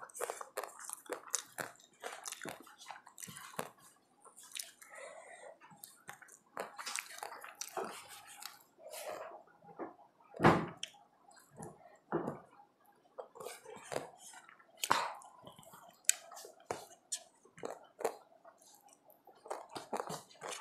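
Close-up chewing and mouth sounds of a child eating rice by hand, picked close by a clip-on microphone. Irregular short clicks run throughout, with a louder one about ten seconds in and another around fifteen seconds.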